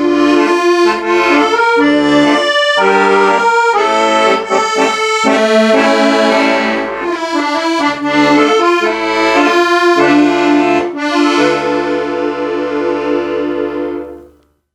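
Accordion music: a melody over chords with deep bass notes, closing on a long held final chord that dies away about 14 seconds in.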